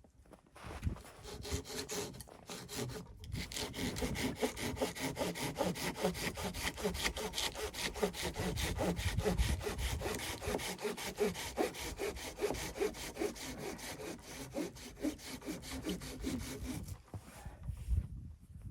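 Hand saw cutting through wood in fast, even back-and-forth strokes. After a few strokes and a brief pause, the sawing runs steadily and stops about a second and a half before the end.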